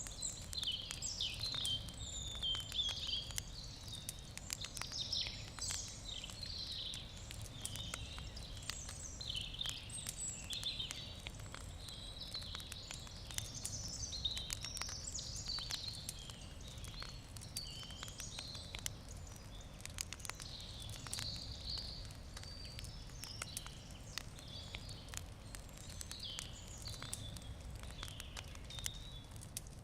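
Wood campfire crackling with scattered sharp clicks and pops, under continuous high chirping and twittering of small birds.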